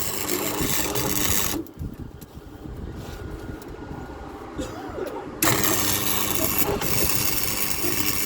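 Power tool working steel in two bursts of a few seconds each: one stops about a second and a half in, and the next starts about five seconds in.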